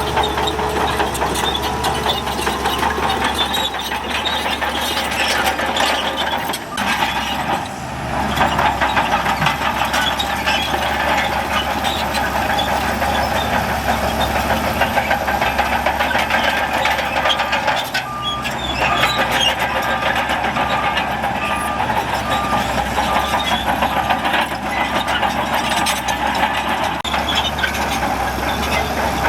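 Heavy diesel earthmoving machinery running steadily under load. In the second half a reversing alarm beeps at an even pace, about one and a half times a second, for several seconds.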